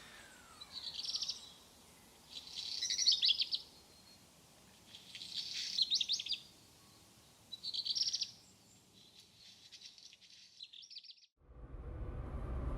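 A small songbird singing: four short, quick, high-pitched phrases about two seconds apart, then a fainter trill. Near the end this cuts abruptly to a louder low rumble.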